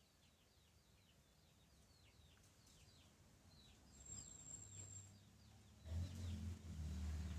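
Birds calling with many quick chirps that slide down in pitch, with a brief high steady whistle about four seconds in. About six seconds in, a motor vehicle's engine comes in loud and low and drowns them out.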